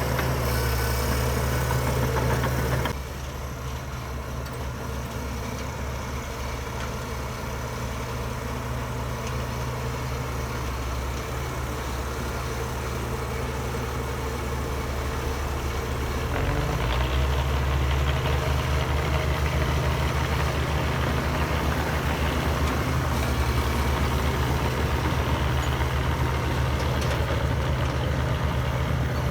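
Heavy diesel engine of earthmoving equipment running steadily. About three seconds in, the sound drops abruptly. About sixteen seconds in, the engine note steps up and grows louder.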